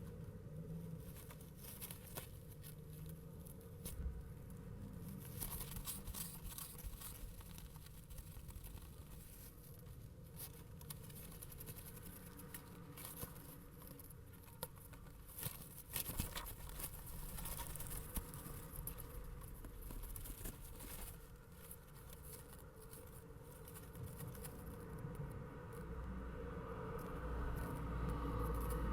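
Faint, irregular scratching, rustling and tapping inside a nest box. A low rumble builds over the last few seconds.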